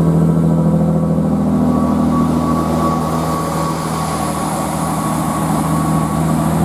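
Chiltern Railways Class 165 diesel multiple unit pulling away from the platform, its diesel engines under power with a steady low drone and a fainter higher whine above it.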